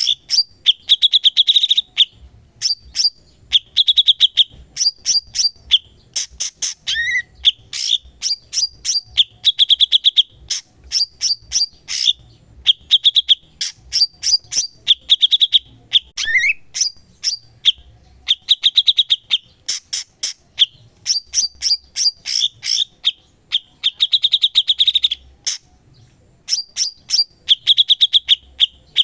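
Cucak cungkok singing vigorously: rapid, buzzy trills alternating with fast runs of sharp chips and whistles, phrase after phrase with brief pauses.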